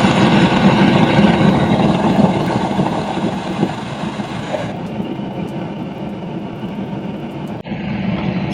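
Gas torch flame burning with a steady rushing noise, heating a part so it expands and slips on as an interference fit. The noise drops and becomes duller about halfway through, then breaks off abruptly near the end.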